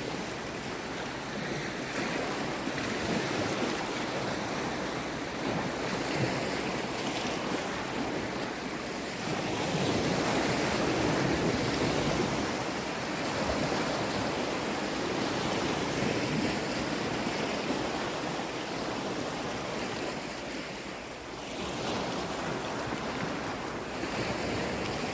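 Sea surf: waves washing in and out in a steady rush that swells to its loudest about ten seconds in, then eases.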